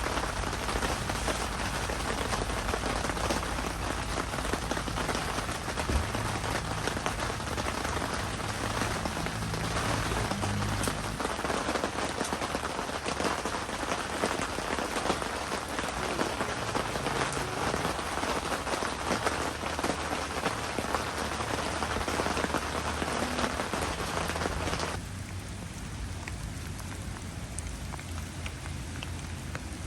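Heavy typhoon rain falling steadily in a dense hiss of drops. About 25 seconds in, the sound suddenly becomes quieter and duller.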